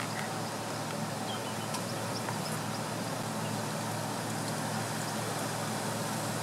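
Steady low hum of a car engine idling under a broad, even hiss, with a few faint high ticks.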